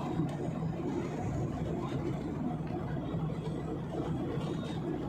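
Steady in-flight cabin noise of a passenger airliner: engine and airflow noise heard from inside the cabin, an even low rumble with no change in level.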